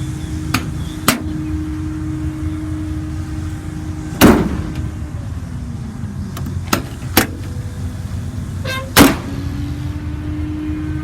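Utility-bed compartment doors being shut on the truck: two loud slams about four and nine seconds in, with lighter knocks and latch clicks between. Under them the 5.9-litre gasoline V8 idles with a steady hum.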